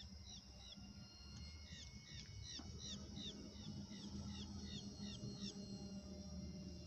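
Birds repeating short, falling chirps, about three a second, over a low, steady, faint drone.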